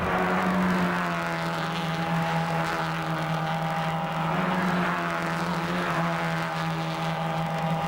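Mazda MX-5 Cup race cars' engines running hard on track. A steady engine note with pitch swells rising and falling a few times as cars go by.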